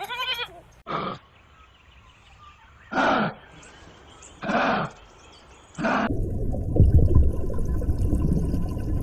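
Animal calls: a short wavering bleat, then four short calls, each falling off in pitch. From about six seconds in comes a loud, continuous low growling roar from a large animal.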